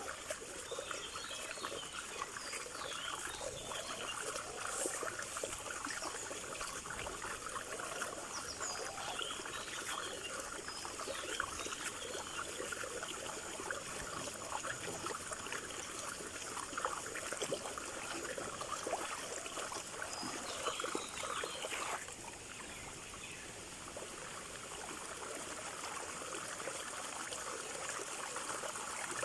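Running stream water, trickling and rushing steadily, with short bird chirps now and then. About two-thirds of the way through the level drops suddenly, then the water sound slowly builds again.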